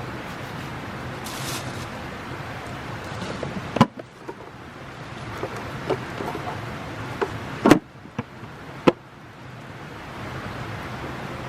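Campfire burning with a steady hiss, broken by a few sharp pops and knocks, the loudest about four seconds in and two more close together near two-thirds of the way through.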